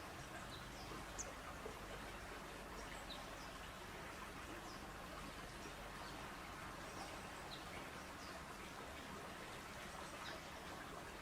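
Faint, steady outdoor background noise with scattered short, high chirps of small birds.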